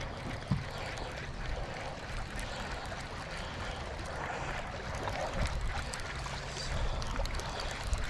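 Water lapping and trickling against a boat's hull, with a low steady hum underneath and a few light knocks.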